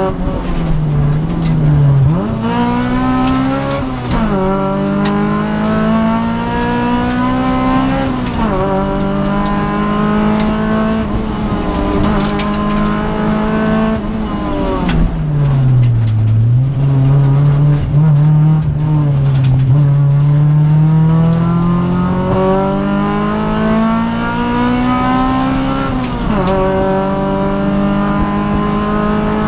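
Honda Civic rally car engine heard from inside the cabin at stage pace. The revs climb and then drop sharply again and again as the car changes gear and lifts. About halfway through the revs fall low, then rise in one long climb.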